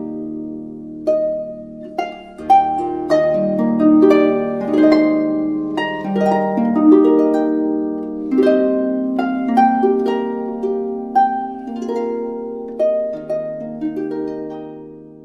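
Instrumental music of a harp played as a slow melody of plucked notes that ring on over low held notes, fading out near the end.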